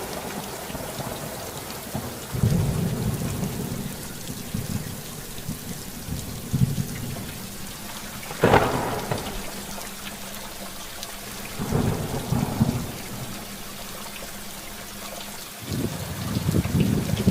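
Storm ambience: a steady hiss of rain with repeated low rolling rumbles of thunder and one sharp thunderclap about eight and a half seconds in.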